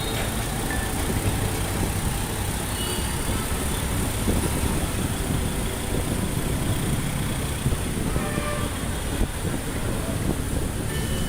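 Steady vehicle traffic noise, a continuous low rumble with a few brief faint high tones scattered through it.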